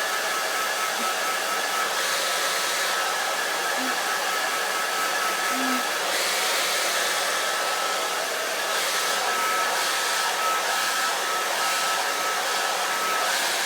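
Handheld hairdryer running steadily, a rush of blown air with a thin high whine from its motor.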